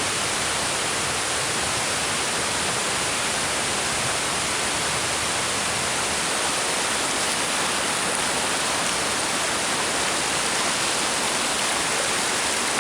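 River water rushing steadily, an even hiss with no separate splashes standing out.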